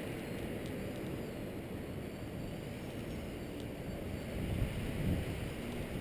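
Gusty wind buffeting the microphone, growing stronger about four and a half seconds in, with the faint whine of an RC plane's electric motor slowly rising and falling in the distance.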